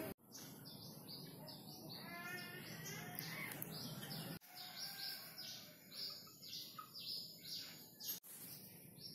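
Small birds chirping: a quick series of short, high notes that slide downward, several a second, with a warbling run of notes around two to three seconds in. The sound breaks off abruptly and resumes three times.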